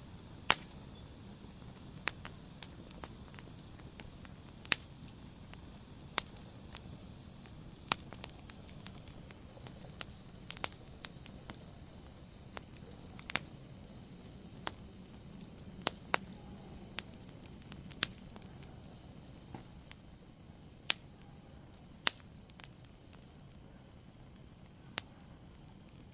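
Wood fire in a fireplace crackling: irregular sharp pops and snaps from the burning logs over a low, steady hiss.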